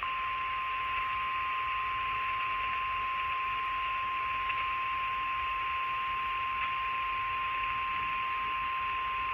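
Weatheradio Canada warning alarm tone, a single steady tone of about 1050 Hz heard through a scanner over radio hiss. It starts abruptly and holds unbroken, signalling that a tornado warning update is about to be broadcast.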